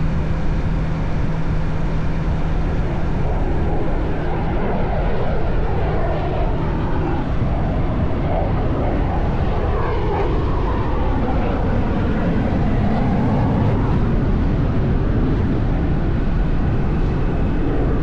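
Military fighter jet flying past low: loud, steady jet engine noise with sweeping tones that rise and fall through the middle as it goes by.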